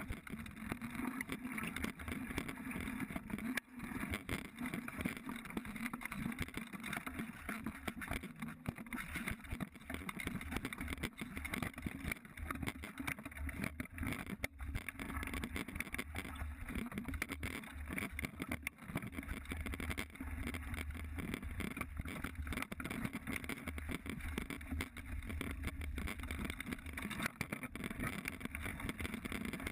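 Mountain bike ridden over a dirt trail, heard from a GoPro: continuous rumbling tyre and wind noise with frequent rattles and knocks from the bike.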